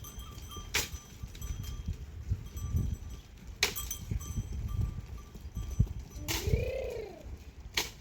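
A sheep bleats once, about six seconds in, a single call that rises and falls. Three sharp clicks or knocks fall earlier and later, over a low steady rumble.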